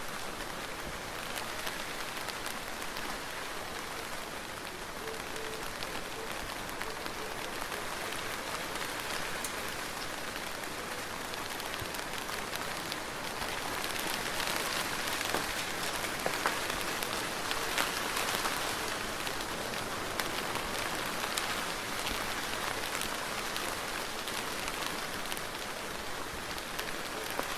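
Soft, steady rain falling, with many small drop ticks through the hiss. It grows a little heavier about halfway through, then eases again.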